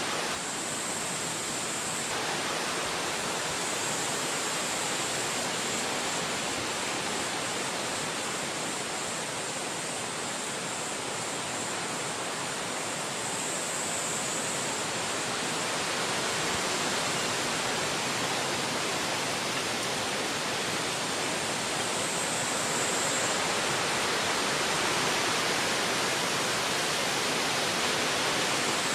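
Wind rushing through forest trees: a steady, even rush that swells a little in the second half.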